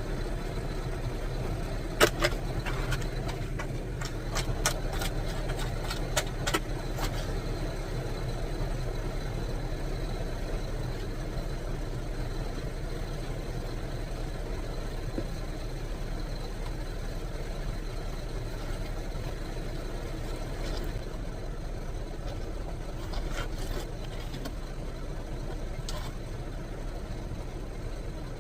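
A car engine idling steadily, with a handful of sharp clicks and knocks a couple of seconds in and again near the end.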